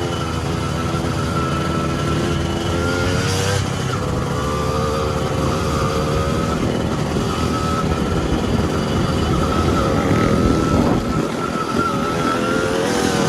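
Dirt bike engine running under riding load, its pitch rising and falling as the throttle opens and closes.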